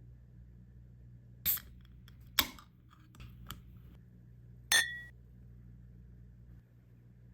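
A few sharp clicks and knocks of kitchenware being handled, ending in a short ringing clink about five seconds in.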